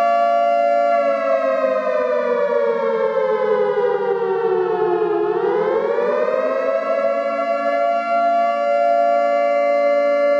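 Siren wailing on a steady pitch, which sags slowly for about four seconds and then climbs quickly back up before holding steady again.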